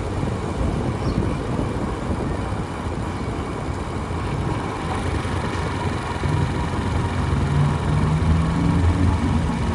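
Motorbike riding through street traffic: a steady engine rumble with road noise, and an engine note growing louder in the last few seconds.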